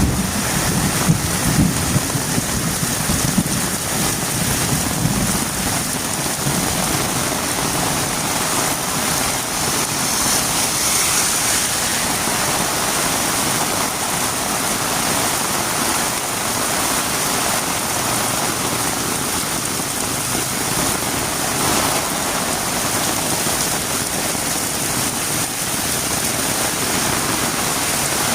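Heavy rain falling steadily on a road, a dense, even hiss, with some low rumbling in the first few seconds.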